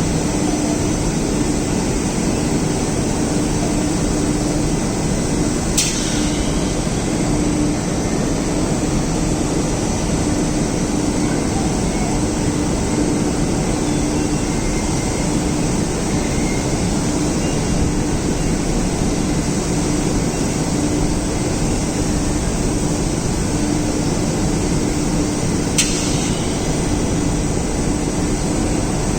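Wagon tippler unloading railway clinker wagons: a steady, loud machine drone and rumble with a constant hum, broken by two sharp clicks.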